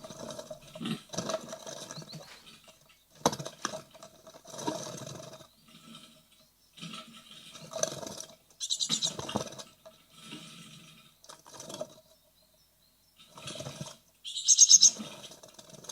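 Great tit nestlings scrabbling and fluttering inside a nest box in irregular bursts, with loud fast high-pitched chittering twice, the loudest near the end. The brood is restless and about to fledge.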